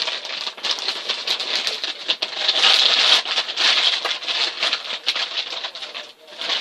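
A dog food bag being handled and turned over, crinkling and crackling continuously with many small sharp clicks. It is loudest around the middle.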